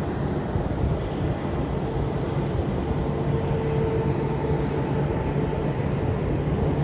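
Jet engines of a landing Boeing 787 Dreamliner, a steady rumbling roar with a faint steady whine that swells and fades midway.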